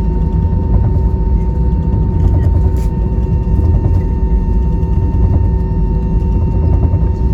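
Steady rumble of an Airbus A320-200's engines heard inside the cabin, with a few steady whining tones over it and small rattling clicks.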